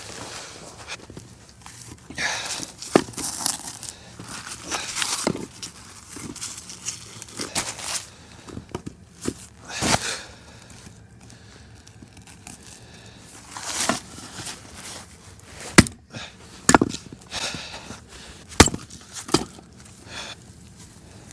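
Someone building and lighting a campfire: irregular rustling and crinkling with several sharp snaps and knocks as kindling and wood are handled and set in the fire ring.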